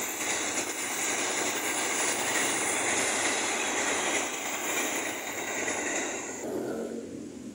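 Train running past with a loud rushing clatter of wheels on rails, dying away near the end.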